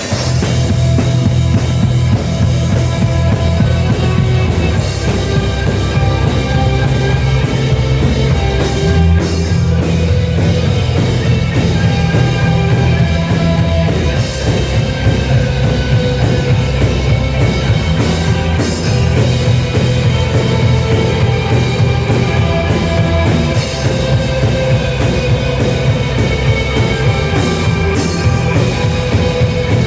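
Loud rock music with a full drum kit and heavy bass, playing steadily throughout.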